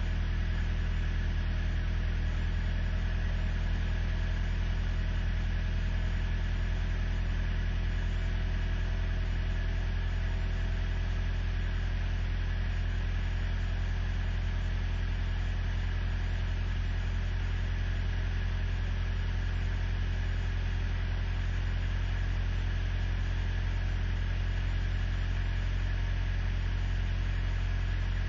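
Truck engine idling steadily after a cold start in sub-zero weather, with a constant low hum.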